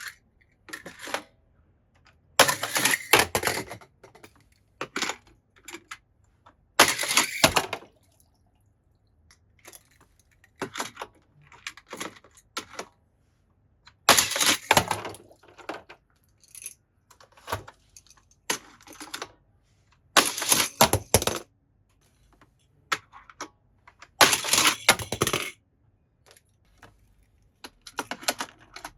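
Small hard toy cars clattering and clinking against each other and a toy track, in short rattling bursts about a second long that come every few seconds, with scattered lighter clicks between.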